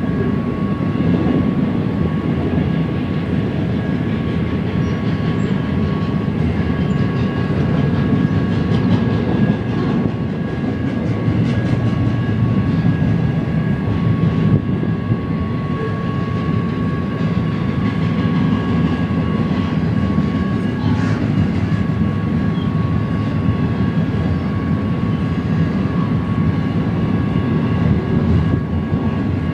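An intermodal freight train's cars rolling past: a loud, steady rumble of steel wheels on rail, with a faint steady high ringing tone over it.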